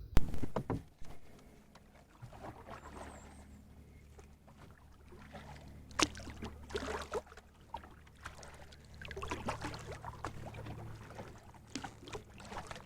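Canoe being paddled with a double-bladed paddle: irregular splashing strokes in the water, with a few sharp knocks, the loudest about six seconds in, over a steady low hum.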